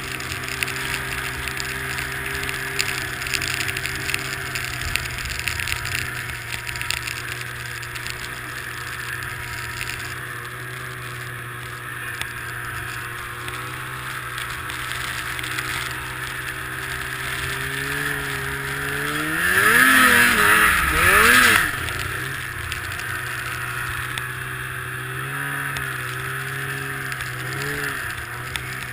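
Snowmobile engine running at a steady pitch, then revving up twice in quick succession about twenty seconds in. The two revs are the loudest moment, and the engine settles back to a steady run afterwards.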